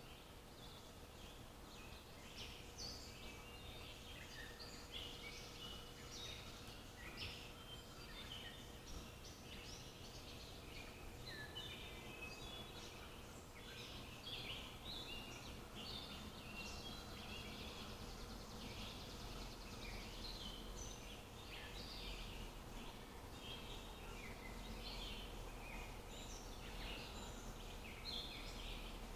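Several small songbirds chirping and singing all through, many short, quick calls overlapping, with a faint steady hum underneath.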